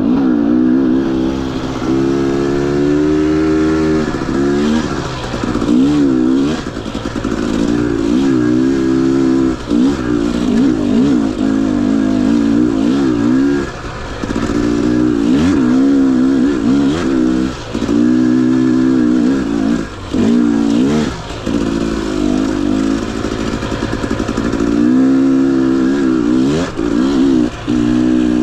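Husqvarna TE 250i two-stroke dirt bike engine under riding load, its pitch rising and falling again and again as the throttle is opened and rolled off, with brief drops in level between pulls.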